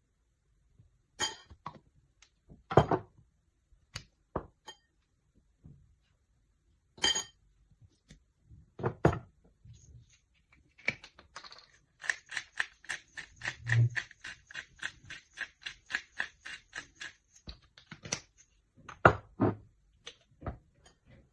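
Kitchen handling sounds: scattered knocks and clinks of utensils and dishes, then a fast, even run of about five clicks a second lasting some five seconds, and two louder knocks near the end.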